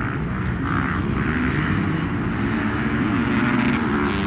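Motocross dirt bike engines running at race speed, their pitch rising and falling as the riders work the throttle.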